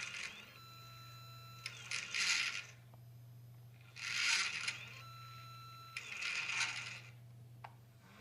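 HEQ5/Sirius equatorial mount's drive motors slewing in short bursts, four times about two seconds apart, each burst under a second long, over a steady low hum.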